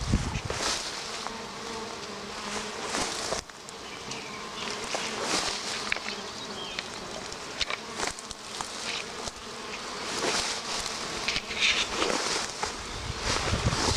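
Bees buzzing, a steady hum that swells and fades as they fly near and away, with brief rustles of plants.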